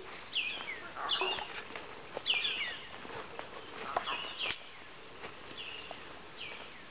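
A forest bird calling over and over, short high notes that mostly slide downward, roughly one a second, with a few footsteps crunching on dry leaf litter.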